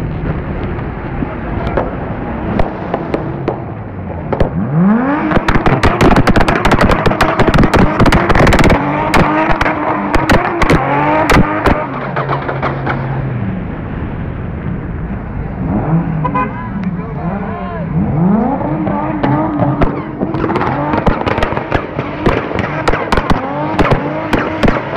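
A car engine revving hard again and again, its pitch sweeping up and falling back, with many sharp pops and cracks over it from about five seconds in and again near the end.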